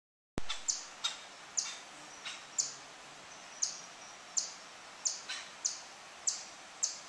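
A small bird calling: short, high chirps, each dropping slightly in pitch, repeated about every half second to a second, over a steady outdoor hiss.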